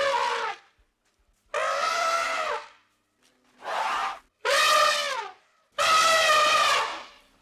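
An animal calling five times: drawn-out, strongly pitched calls, each up to about a second and a half long, with a slight drop in pitch at the end.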